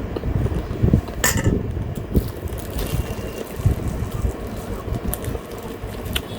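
Eating sounds: chewing with a few sharp clicks of cutlery on a plate, the clearest about a second in and near the end, over the steady rumble of an electric fan blowing on the microphone.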